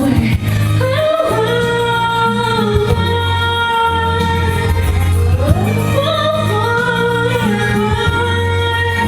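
Karaoke singing over a backing track: a voice sings two phrases, each sliding up into a long held note.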